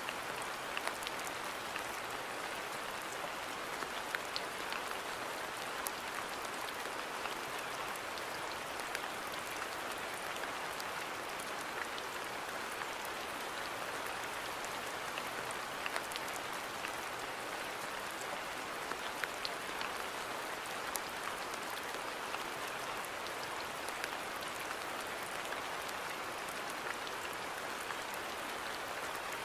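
Steady rain falling on a garden, an even hiss dotted with the ticks of individual drops striking surfaces.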